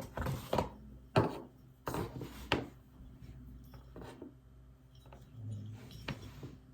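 Handling of packaging and parts from an LED light kit: a series of rubbing and scraping noises with light knocks, busiest in the first three seconds, then a few scattered ones.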